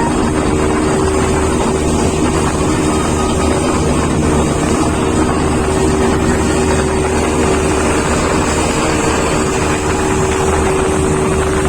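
An engine running steadily at constant speed, with wind on the microphone.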